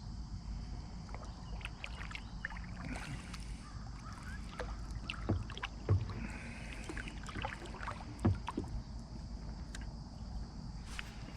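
Light clicks and knocks of gear and hull on a fishing kayak, with three sharper knocks near the middle, over a low steady rumble.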